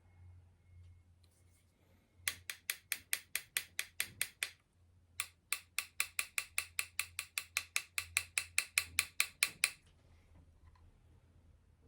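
Small repair hammer tapping rapidly and evenly on a flute's metal body, about six light ringing taps a second, working out a dent. Two runs of taps with a short pause between them.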